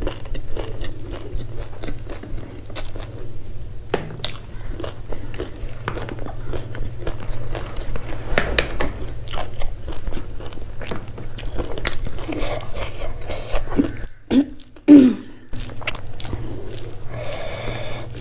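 Close-miked eating: chewing and crunching food with wet mouth clicks and smacks, irregular throughout, over a steady low hum. A short, loud low sound comes about three-quarters of the way through.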